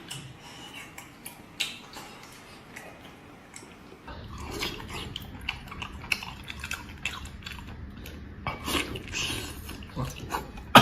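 Close-up eating sounds: a person biting and chewing meat, with scattered clicks and smacks. A low steady hum comes in about four seconds in.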